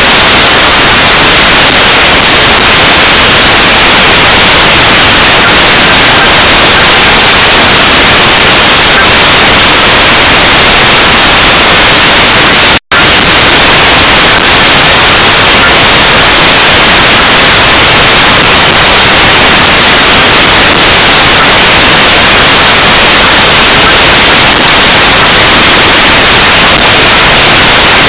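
Steady, loud hiss of static-like noise pinned near full volume, with no separate firework bangs standing out, broken by a momentary dropout about 13 seconds in.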